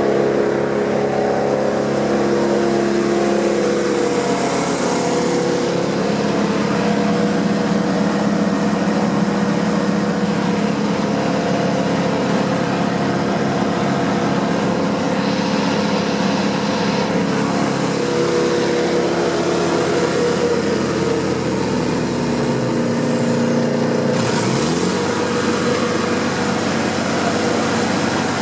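Vermeer BC1000XL wood chipper's 3.3-litre Cummins turbo diesel running steadily, its note changing about three-quarters of the way through.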